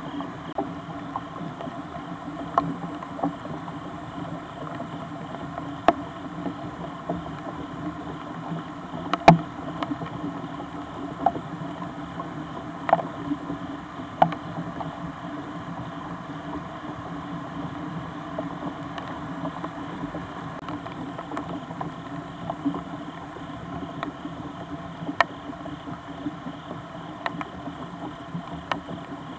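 Steady rain heard through a trail camera's microphone, with a dozen or so sharp, irregular drips or taps, the loudest about nine seconds in.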